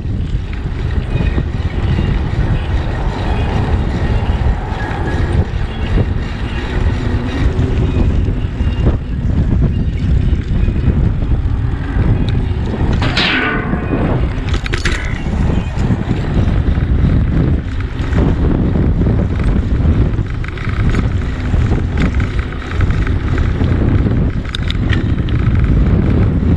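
Wind buffeting the microphone of a camera on a moving bicycle: a steady, loud low rumble, with a brief falling whistle about halfway through.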